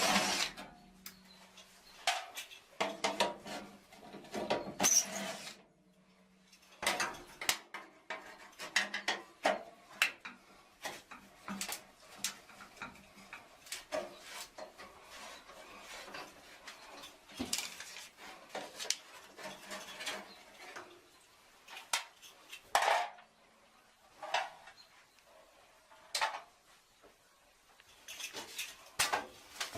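Metal tools and parts clinking and clattering in irregular knocks and clicks as HVAC equipment is taken apart. A low steady hum runs under the first several seconds.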